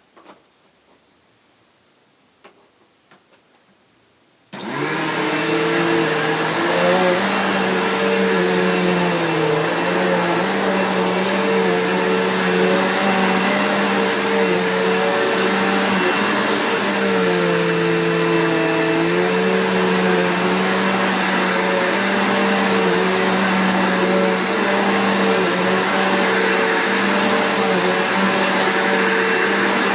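Bissell PowerForce Bagged upright vacuum cleaner switched on about four and a half seconds in, after a few faint clicks, then running steadily; its motor pitch dips briefly a little past halfway.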